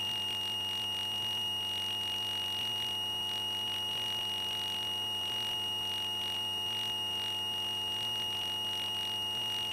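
A steady high-pitched electrical whine over a faint low hum, heard in cockpit intercom audio during a grass-field taxi in a Cessna 172. It holds an even pitch and level throughout.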